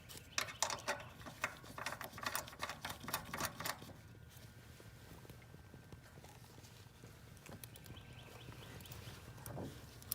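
Quick metallic clicks and taps of a tool working the flare cap down tight over a leaking Schrader valve core on a refrigerant service port, packed into the first few seconds, then a steady low hum with a few faint clicks near the end.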